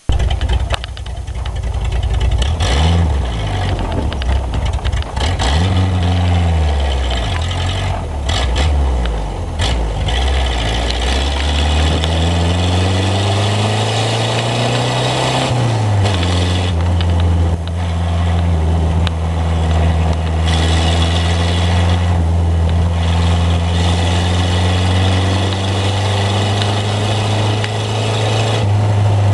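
Ford Model B four-cylinder engine running through an open header with no muffler, heard from the open roadster as it drives. For the first half its pitch climbs and falls several times as the car accelerates and eases off, ending in one long climb that drops about halfway through; after that it runs at a steady pitch.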